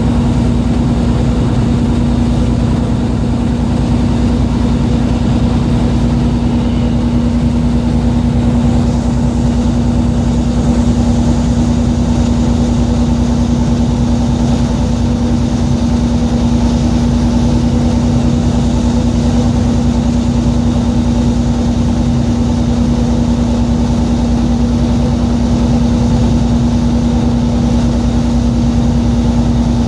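A fishing boat's engine running steadily: a constant low drone with a steady hum, unchanging throughout.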